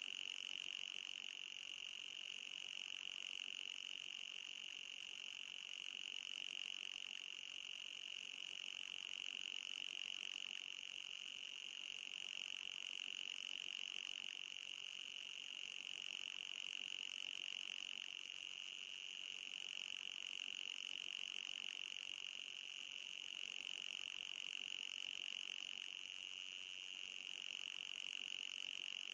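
Anti-mosquito repeller sound: a steady, high-pitched electronic tone, with a fainter, even higher band above it, unchanging throughout.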